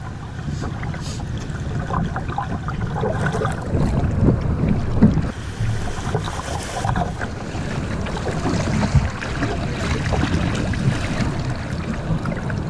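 Wind buffeting the microphone, with river water rushing and splashing around a kayak on a flood-swollen river.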